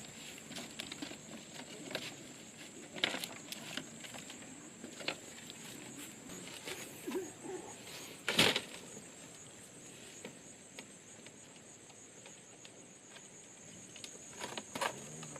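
Steady high insect drone, with scattered rustles and short knocks of handwork over it; the loudest knock comes about eight seconds in.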